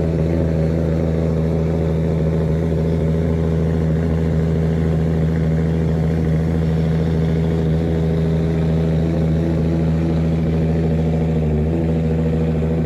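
Car engine idling steadily just after a cold start, at an even, unchanging speed.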